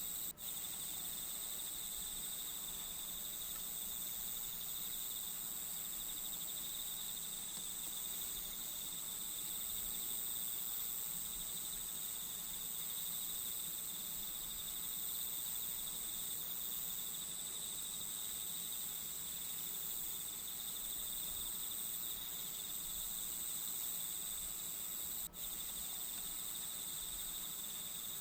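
Crickets chirping in a steady, unbroken trill, a nature-sound background bed. The sound drops out for an instant just after the start and again near the end.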